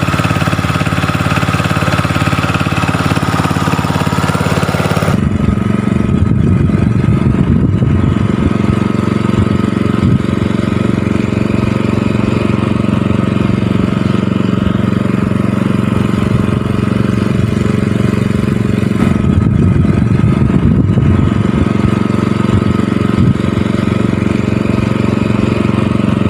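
Small engine of a paddy-field water pump running steadily. About five seconds in the sound changes abruptly, losing most of its hiss and becoming a heavier low hum.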